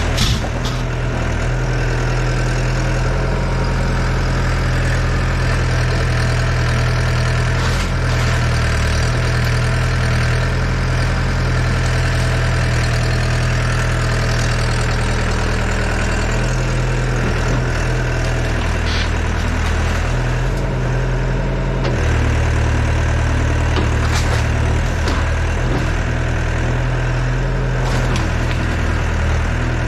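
Yanmar ViO80 excavator's diesel engine running steadily, its low drone shifting in pitch a few times, with a few brief sharp knocks scattered through.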